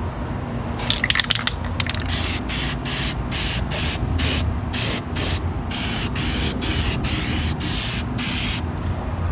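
Rust-Oleum aerosol spray paint can hissing in a run of short bursts, starting about a second in and stopping shortly before the end, as paint is sprayed in quick passes.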